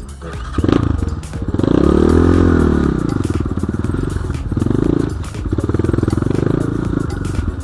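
BSE J1 dirt bike engine revving up and easing off repeatedly under throttle, with the biggest swell in pitch about two seconds in.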